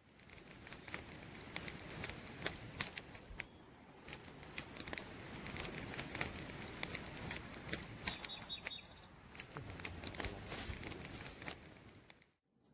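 Wood campfire crackling, with many irregular sharp pops and snaps over a soft hiss. A few faint, short, high chirps come about two-thirds of the way through.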